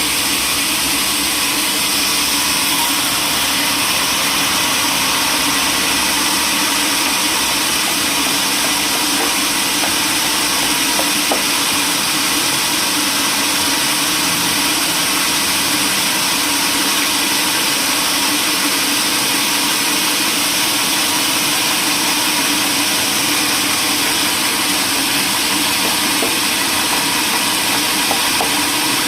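Sawmill machinery running steadily: a continuous, even mechanical drone and hiss with no breaks.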